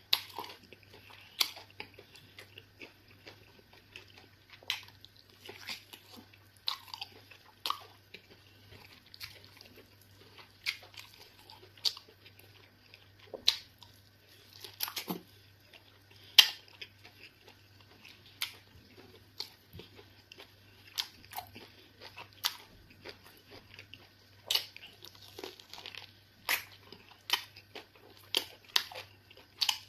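A person eating close to the microphone, swallows of eba and fufu with egusi soup: chewing, biting and mouth smacks, heard as irregular sharp clicks about once or twice a second.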